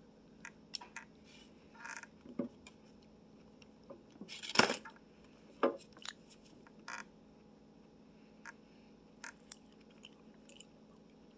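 Close-up eating sounds as a hard Indian sweet is bitten and chewed: scattered small clicks and mouth noises, with the loudest crunch about four and a half seconds in.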